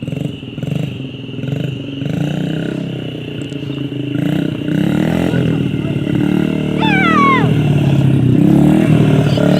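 Small 50cc motorcycle engine running and being revved, its pitch rising and falling and growing louder about halfway through. A brief high falling squeal about seven seconds in.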